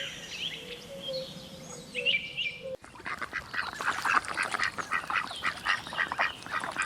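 Faint birds chirping at first; then, about three seconds in, an abrupt change to ducks quacking, many short calls in quick succession.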